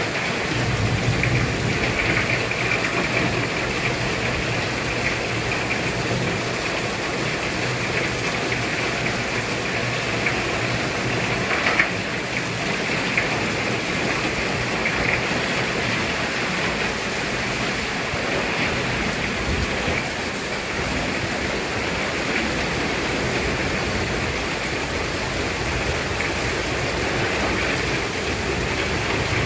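Heavy rain pouring down steadily in strong wind, an even hiss, with a single brief louder sound about twelve seconds in.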